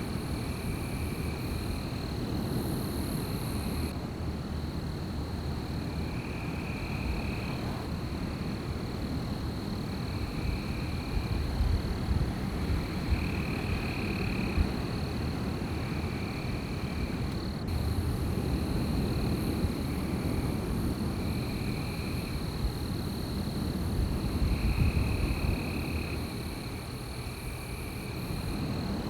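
Night wind blowing in gusts, a low rumble that swells and eases, under a steady high-pitched insect drone and short chirping calls repeating every second or two.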